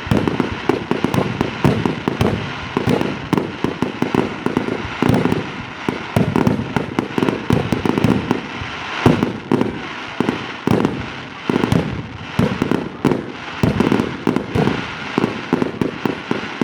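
Fireworks display: a rapid, unbroken barrage of loud bangs, several a second.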